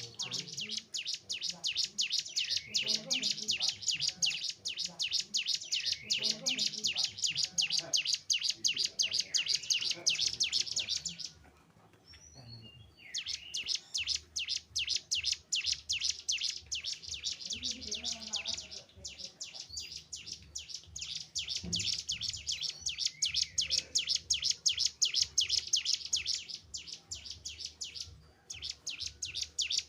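Cigun, a mountain prinia, singing a long, fast run of rapid, evenly repeated high notes. It breaks off for about two seconds around the middle, then resumes, with a brief pause near the end.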